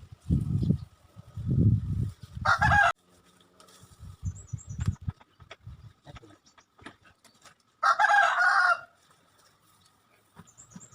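A rooster crowing twice, a short crow about two and a half seconds in and a longer one near eight seconds, over low rumbling bumps in the first few seconds.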